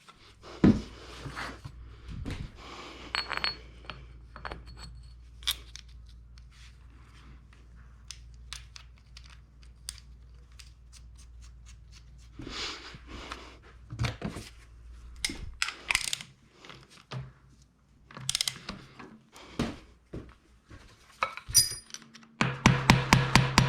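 Hand tools and metal parts clicking and clinking as the countershaft sprocket is fitted to a KTM 640 LC4 engine's output shaft, with a low steady hum under the first half. Near the end comes a fast, even run of clicks.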